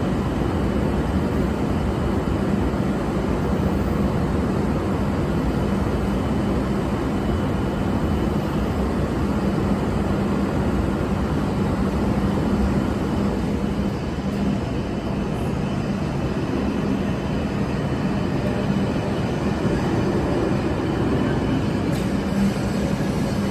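E7/W7-series Hokuriku Shinkansen train pulling out of the station platform at low speed: a steady low rumble with a constant hum.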